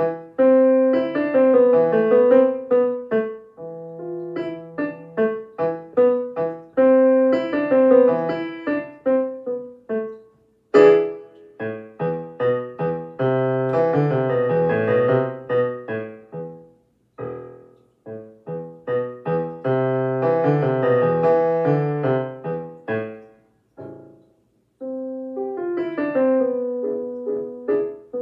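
Solo piano playing an elementary-level minor-key piece in a quick run of repeated notes and chords, with a sharp accented chord about eleven seconds in and a couple of brief breaks later on.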